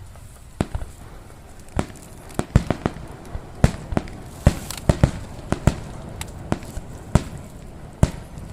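Fireworks bursting in a rapid, irregular string of sharp bangs, thickest from about two and a half to five seconds in, over a low rumble.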